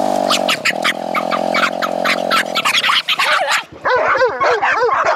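A pack of dogs barking excitedly around an idling motorbike; the engine cuts off a little under three seconds in and the barking carries on.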